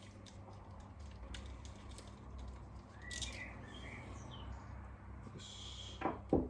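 Scattered light clicks and small metallic squeaks from an 8 mm ratchet loosening the nut inside a Look X-Track pedal axle, ending with two loud squeaks that drop quickly in pitch.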